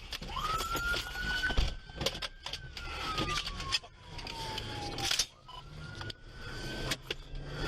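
Police car siren wailing: a slow rise and fall in pitch, starting a second cycle about five seconds in, with scattered knocks and clicks.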